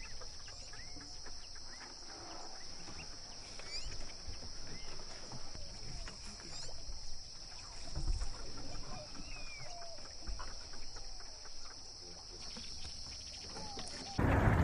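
Wetland natural soundscape: a steady high-pitched insect drone under many short scattered chirping calls. Near the end it gives way to a louder, noisier rushing sound.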